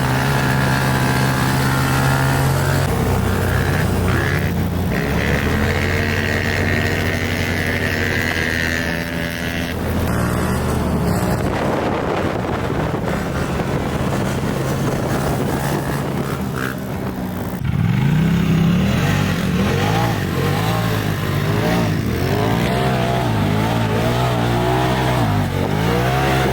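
Small off-road engines running, then revving, with the pitch sweeping up and down again and again over the last several seconds.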